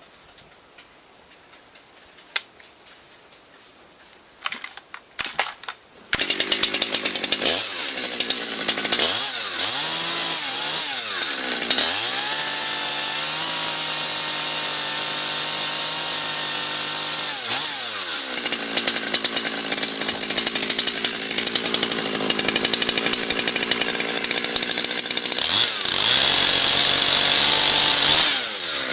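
Stihl 020 two-stroke chainsaw being pull-started: after a few short cranking bursts it catches about six seconds in. It is blipped up and down, settles to a steady speed, and near the end is revved hard to high speed for a couple of seconds before dropping back.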